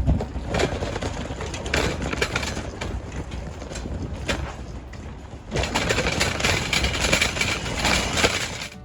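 Automatic car wash working over a car: a rushing wash noise with scattered knocks, growing louder about five and a half seconds in.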